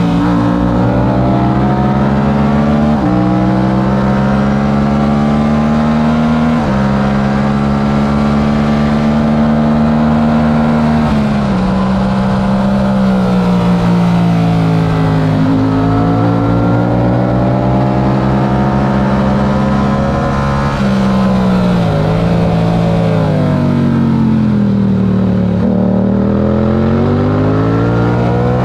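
Yamaha R7's parallel-twin engine at race pace, climbing in pitch under throttle with sudden steps at the gear changes. Engine speed sags and picks up again through the corners.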